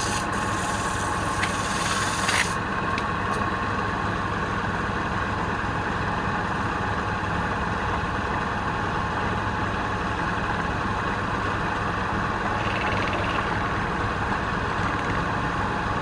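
Wood lathe running steadily. For the first two and a half seconds a scraping rub against the spinning workpiece is heard over it, then it stops suddenly and only the lathe's steady running remains.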